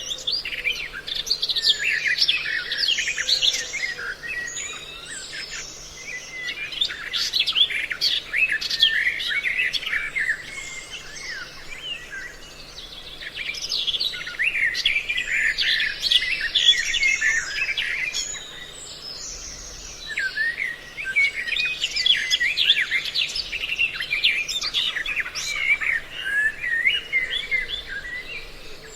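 A dense mixed chorus of small birds chirping and calling over each other, swelling and easing every several seconds.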